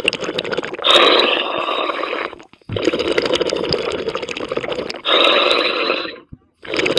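Scuba diver's exhaled breath bubbling out of the regulator underwater, in long gurgling bursts with short breaks between them.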